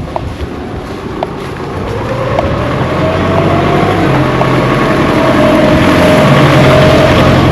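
A motor vehicle's engine approaching and growing louder, its hum rising slightly in pitch about two seconds in and at its loudest near the end, as it draws close.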